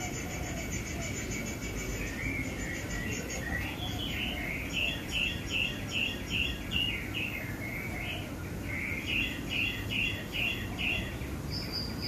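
Songbird chirping: strings of quick, repeated chirps, about two or three a second, starting about four seconds in and again about nine seconds in. A fast, even trill comes before the first string, over a low background hiss.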